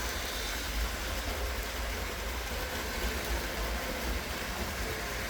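LEGO 9V electric trains running on the layout's plastic track: a steady low rumble with a hiss over it.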